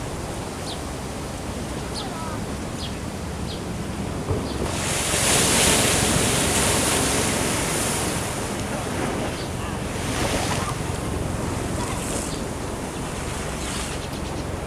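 Ocean surf washing in, with one loud hissing surge of water lasting about four seconds from about five seconds in. Wind rumbles on the microphone underneath.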